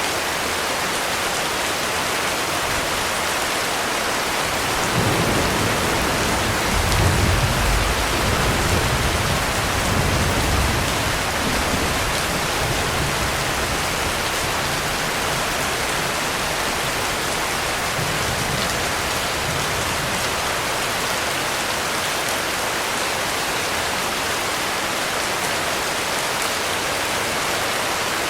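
Heavy rain falling steadily. Thunder rumbles low about five seconds in, swells for a few seconds and dies away by about twelve seconds, with a fainter rumble near the end of the first twenty seconds.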